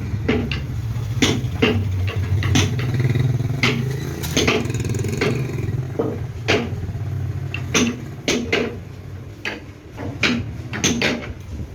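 A machine's motor running steadily with a low hum, under frequent irregular sharp metallic knocks and clanks.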